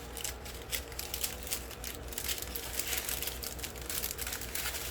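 Small plastic bags of diamond painting drills crinkling as they are handled, a run of short irregular crackles.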